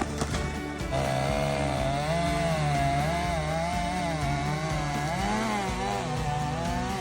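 Chainsaw running and cutting wood, starting up loud about a second in, its engine pitch wavering up and down as the chain bites and frees.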